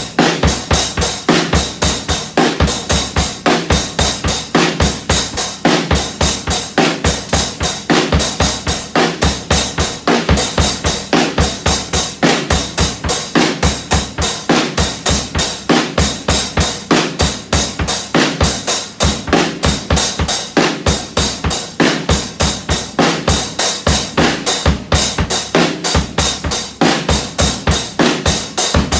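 Drum kit played in a fast, steady, unbroken beat, bass drum and snare strikes following one another several times a second.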